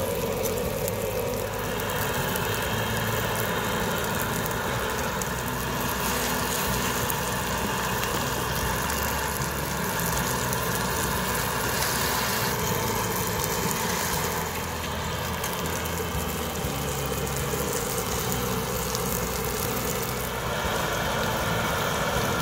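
Egg-battered pieces of dried pollack sizzling steadily in oil on a hot griddle, with a steady low rumble underneath.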